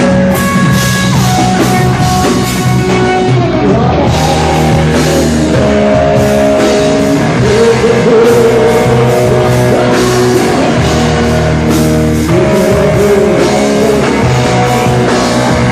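Rock music from a band: drum kit and guitar under a sung or played melody line that bends in pitch, loud and continuous.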